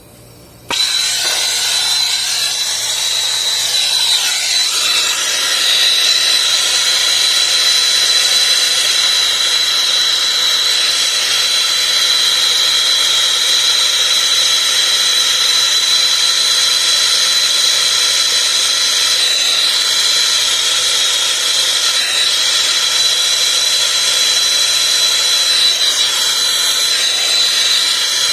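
Brazing torch burning with a loud, steady hiss and a thin high whistle through it, lit suddenly about a second in, while a split copper refrigerant pigtail on a heat pump is brazed.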